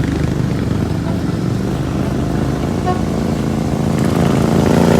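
Motor vehicle engine running, a low steady drone that grows louder over the last second or so.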